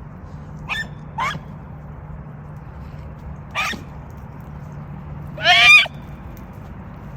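Beagles baying on a rabbit's track: three short yelps in the first few seconds, then one longer, louder bawl near the end. The hounds are giving voice as they run the scent.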